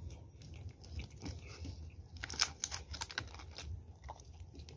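A person chewing pizza close to the microphone, with wet mouth clicks that come thickest in a run about halfway through.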